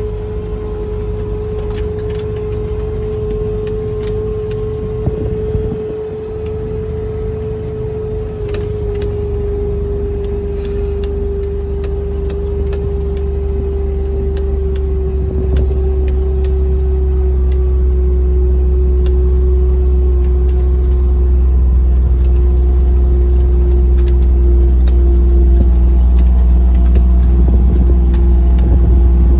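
Small vehicle being driven across a rough field: a steady whining tone that drifts slightly lower in pitch, with a low rumble that grows louder about halfway through, and scattered rattles and clicks from the bumps.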